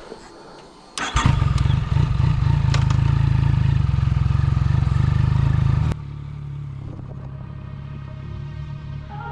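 Yamaha MT-09 Tracer's three-cylinder engine starting about a second in, with a clatter at the catch, then running loud and even. It drops suddenly to a quieter steady running sound about six seconds in.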